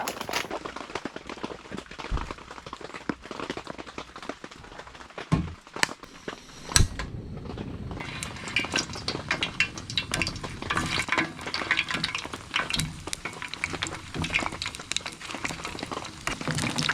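Shrimp frying in hot oil: a steady sizzle with dense crackling, and a couple of sharp knocks of cookware about halfway. The crackle grows thicker and louder from about eight seconds in.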